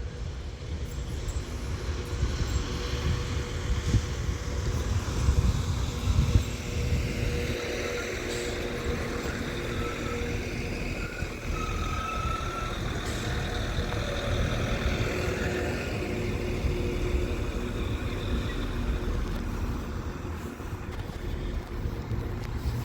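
Northern class 195 diesel multiple unit pulling into the platform: a steady engine and wheel rumble with a few held tones, and a brief high squeal about twelve seconds in.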